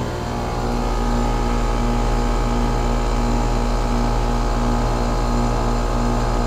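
2001 Trane XE1000 Weathertron heat pump's outdoor unit running, likely in heating mode: its Climatuff compressor and fan hum steadily, with a regularly pulsing tone in the hum. The low hum grows a little louder about half a second in.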